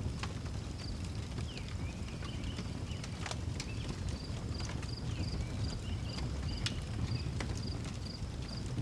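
Outdoor wood fire crackling with irregular sharp pops over a steady low rumble, while crickets chirp in an even high pulse about three times a second and a bird gives a few short calls.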